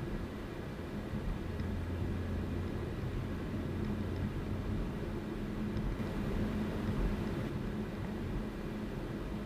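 Car driving at a steady speed: a constant low engine drone over tyre and road noise.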